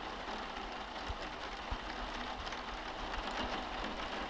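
Steady rain falling, an even hiss of drops, with two soft low thumps about a second and a half apart.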